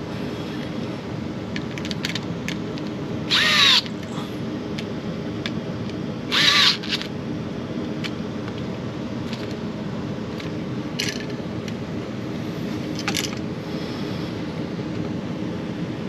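Cordless drill/driver run in two short bursts about three seconds apart, each about half a second long, driving or backing out a screw at the switch box, with light clicks of handling between.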